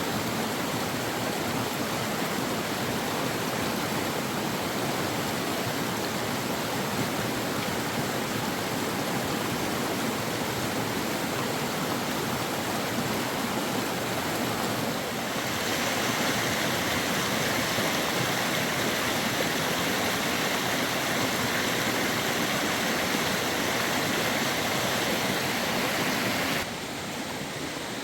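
Fast-flowing river water rushing in a steady noise. It turns louder and hissier about halfway through, then drops abruptly quieter near the end.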